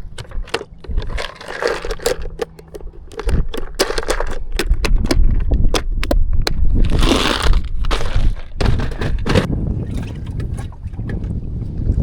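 Water splashing and sloshing in choppy conditions, with scattered sharp knocks and clicks and a steady low wind rumble on the microphone. Two louder splashy bursts come about a second and a half in and about seven seconds in.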